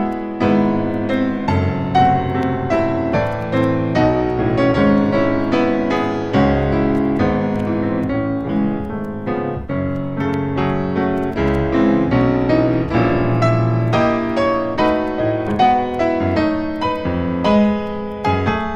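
Background piano music, a steady stream of gentle notes and chords.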